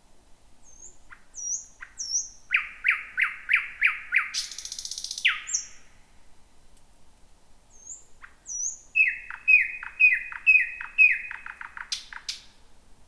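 Thrush nightingale singing two loud phrases. Each is a run of repeated, sharply falling notes with thin high whistles. The first phrase ends in a dry rattle, and the second in a quick burst of notes.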